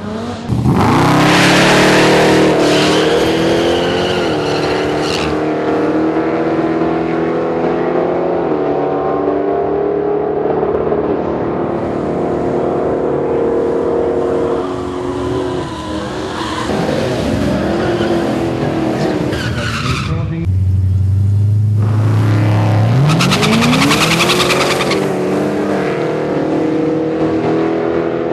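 V8 drag cars revving hard with tyres spinning and squealing in burnouts. The revs climb sharply right at the start and hold high. Near 20 seconds in the sound cuts to a low steady idle, then the engine revs up again with more tyre squeal.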